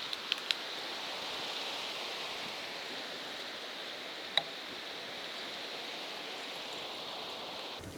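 Strong wind rushing through vegetation: a steady hiss, with a few sharp clicks near the start and one about halfway. The noise cuts off suddenly just before the end.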